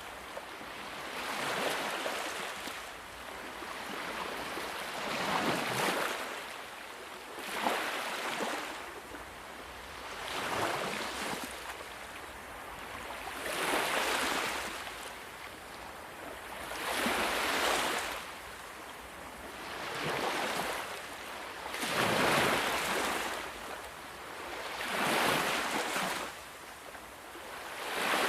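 Sea waves washing onto a shore, the surf swelling and fading in repeated surges about every two to three seconds.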